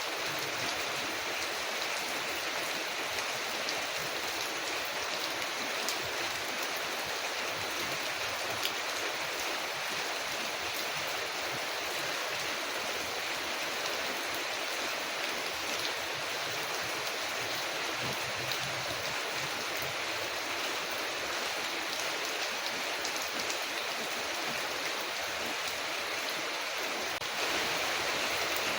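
Steady rain falling on a window, an even hiss with a few faint sharp ticks; it grows slightly louder about a second before the end.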